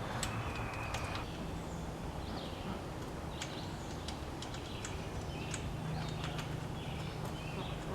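Scattered short, high bird chirps over a steady low background hum, with one brief steady whistle-like tone in the first second.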